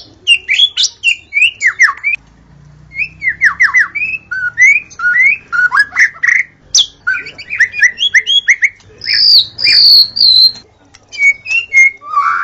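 White-rumped shama singing a fast, varied song of quick whistled sweeps and glides, broken by a short pause about two seconds in, with a few longer high whistled notes later on.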